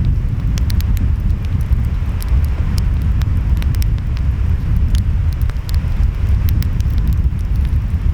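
Wood fire crackling, with frequent sharp pops, over a steady low rumble of ocean waves and wind.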